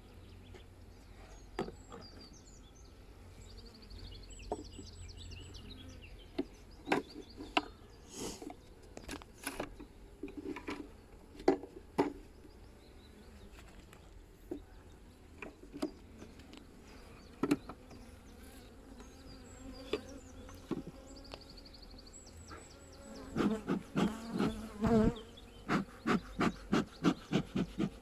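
Honeybees buzzing around an open hive, with scattered wooden clicks and knocks as hive parts and frames are handled. Near the end comes a quick run of knocks.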